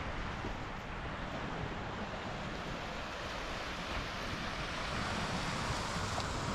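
Steady wash of lake waves on the shore, with wind buffeting the microphone.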